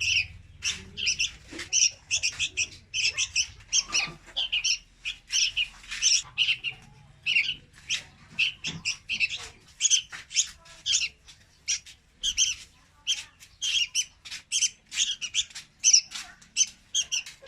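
Young red-whiskered bulbuls calling: a continuous, rapid run of short, high chirps, several a second.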